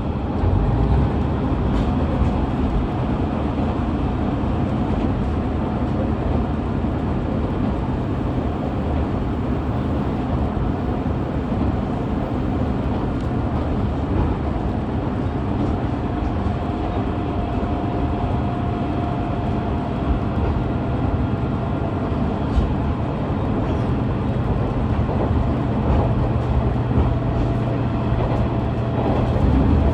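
KiHa 110-series diesel railcar running along the line, heard from aboard: a steady rumble of the diesel engine with wheel-on-rail noise. A low hum swells near the end.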